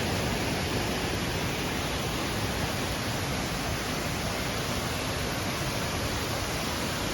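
Steady rush of falling water from waterfalls and the river, an even noise without breaks.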